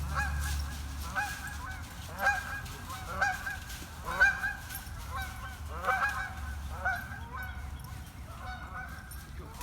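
Geese honking, a run of repeated calls about once a second, loudest in the middle and fainter toward the end.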